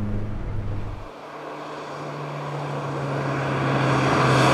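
Lotus Elan's four-cylinder engine heard from inside the cabin for about a second, then the same car heard from the roadside approaching, its engine note holding steady and growing louder toward the end.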